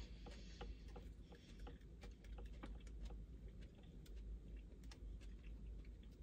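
Faint close-up chewing: soft, irregular mouth clicks and smacks while eating burrito-bowl food.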